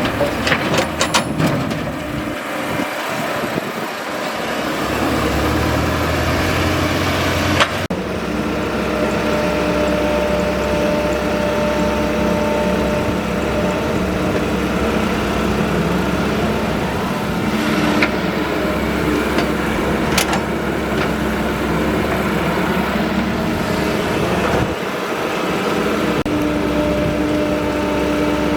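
Excavator engine running steadily, with a few sharp knocks, the loudest about eight seconds in.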